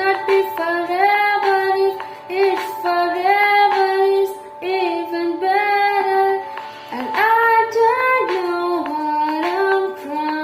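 A song with a high singing voice carrying a melody over light instrumental backing.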